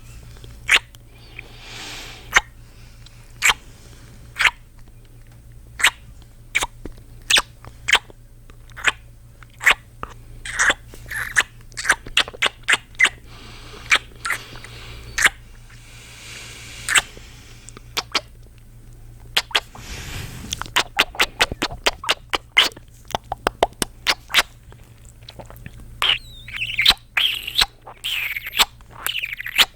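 Close-miked kissing mouth sounds: a string of sharp lip smacks, about one a second at first and quicker later, with a few breaths between. Near the end come some squeaky, sliding kisses.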